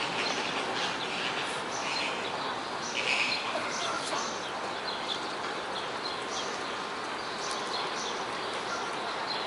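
Outdoor ambience of small songbirds chirping in the trees: many short, scattered calls over a steady background hiss, with one brief louder noise about three seconds in.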